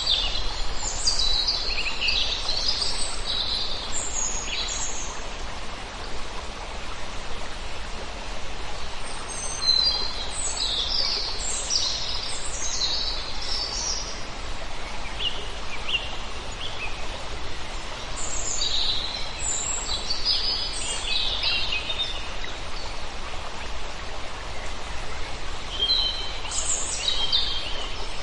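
Many small birds chirping in clusters of short, high calls, coming and going in groups every several seconds, over a steady rushing background noise.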